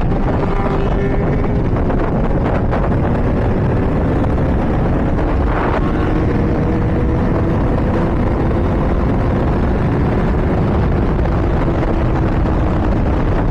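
Honda CBR600RR's inline-four engine running steadily at high speed under heavy wind rush. Its pitch eases slowly downward.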